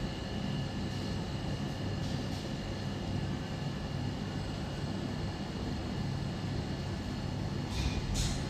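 Laser welding machine running with a steady low machine hum and a few faint high steady tones. Two short hisses come near the end.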